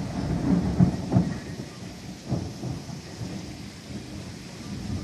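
Thunder rumbling and cracking in a heavy rainstorm, loudest in the first second and a half with another crack a little after two seconds, over steady rain.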